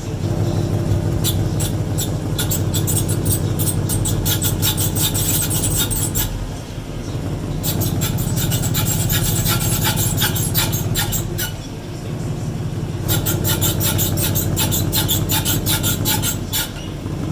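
Rapid, scratchy squeaking from a newly installed one-piece aluminum driveshaft on a 2014 Mustang GT, heard over the steady drone of the running drivetrain. The squeaking comes in three long stretches, dropping away briefly twice. It appeared on installation, and it is unknown whether it is break-in noise or the sign of a more serious problem.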